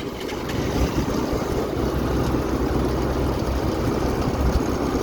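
Motor scooter running while being ridden: a steady engine rumble with a rushing noise over it, getting louder over the first second and then holding level.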